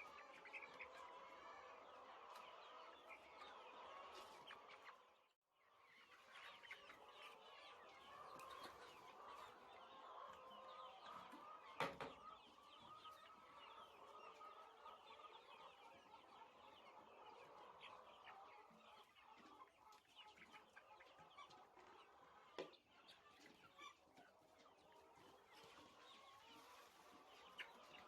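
A flock of poultry, faint, clucking and cheeping together without a break, many small calls overlapping. The sound drops out briefly about five seconds in, and there is a single sharp knock near the middle.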